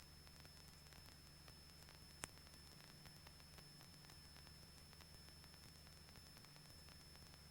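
Near silence: a faint steady hiss and low hum of line noise, with one sharp click about two seconds in.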